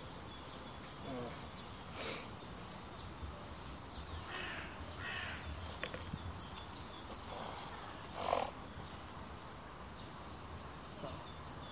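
A few harsh cawing bird calls, the loudest about eight seconds in, over a steady low rumble.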